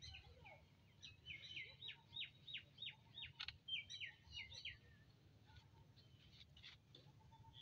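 A small bird singing faintly: a fast run of short, high, downward-slurred whistled notes, about three a second, from about a second in until about five seconds in. A few sharp clicks come near the end, over a low steady rumble.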